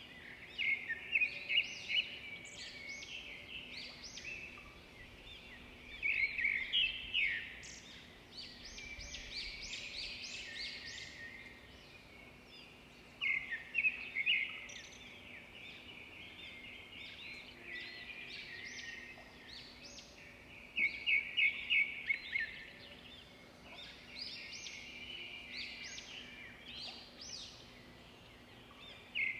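Songbirds singing and chirping, with loud bursts of rapid repeated notes every several seconds over softer chatter.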